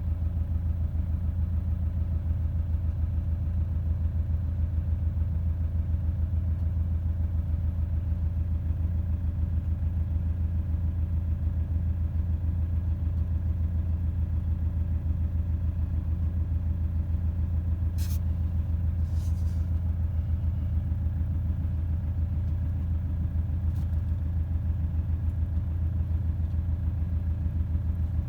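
Vehicle engine running with a steady low rumble, with a couple of faint clicks about two-thirds of the way through.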